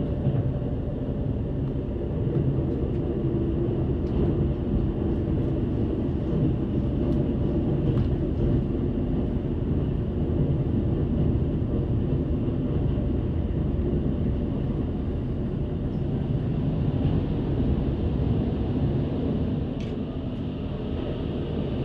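Metre-gauge passenger train running at speed, heard from inside the carriage: a steady rumble of wheels on rail with a few faint clicks.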